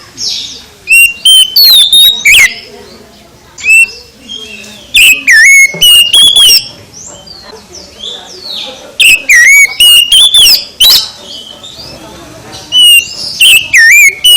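Oriental magpie-robin (kacer) singing: loud bursts of clear whistled notes with quick rising and falling sweeps, in phrases repeated every few seconds, with fainter chirps between them.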